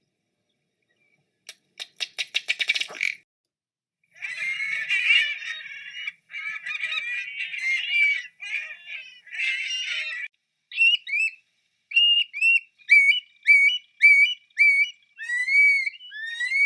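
Recorded bird calls played one after another with silent gaps between them. First comes a fast rattle of clicking notes, then several seconds of harsh chattering, then a run of short whistled notes, each slurring up or down.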